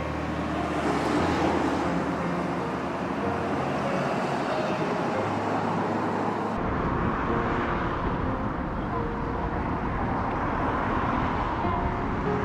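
Steady road traffic noise from passing cars, a continuous hum and rush. Its character changes abruptly about halfway through.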